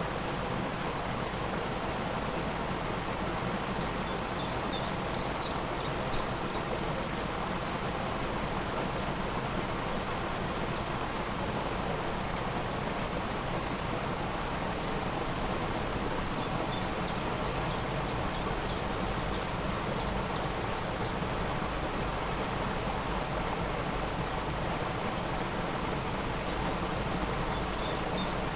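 Steady rush of a waterfall. A bird sings twice over it, each time a quick run of short, high repeated notes, about five seconds in and again from about seventeen to twenty seconds in.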